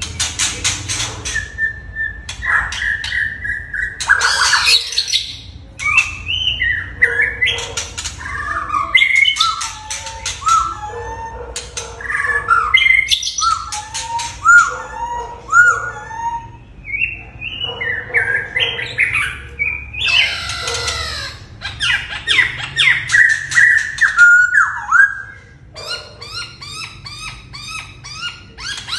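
A white-rumped shama and a masked laughingthrush singing against each other in a long, varied run of loud whistled phrases mixed with harsh rasping calls, ending in a quick series of short repeated notes.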